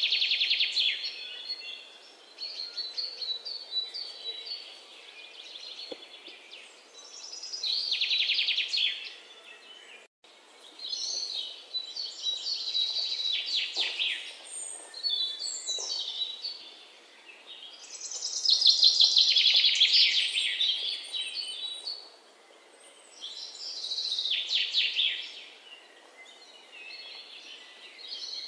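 A songbird singing, repeating a high trilling phrase of fast notes every few seconds.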